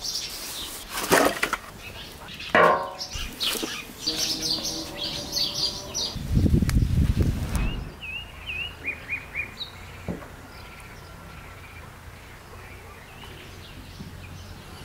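Birds chirping in short repeated calls, after a first half of brief clicks, knocks and a short low rumble.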